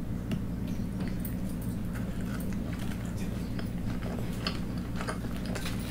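Close-miked chewing of a bite of poori dipped in potato curry: soft, wet mouth clicks and smacks at an irregular pace, over a steady low hum.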